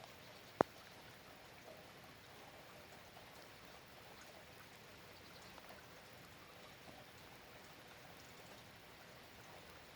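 Steady light rain with scattered drops pattering. A single sharp tap about half a second in stands out as the loudest sound.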